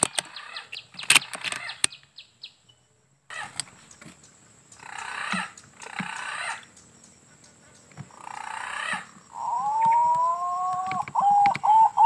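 A bird calling near the end: one long rising call, then a quick run of short notes. In the first two seconds, an insect trill of rapid clicks fades out.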